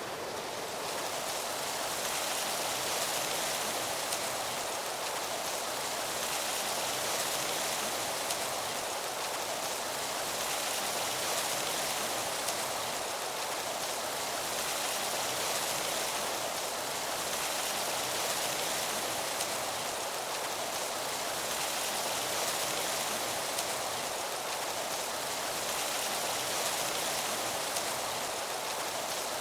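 Wind rustling through the leaves of autumn trees: a steady hiss that swells and eases gently every few seconds.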